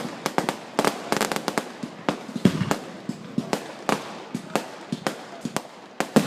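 Fireworks display going off: a dense, irregular run of sharp bangs and crackles, several a second, with a heavier boom about two and a half seconds in.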